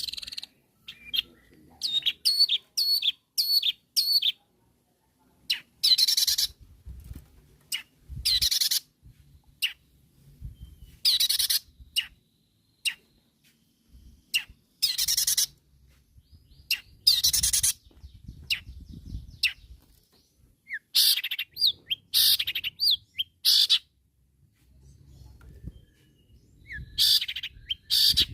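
Long-tailed shrike (cendet) in full song: a quick run of short, sharp chirps, then loud harsh rasping calls that come in bursts every two to three seconds.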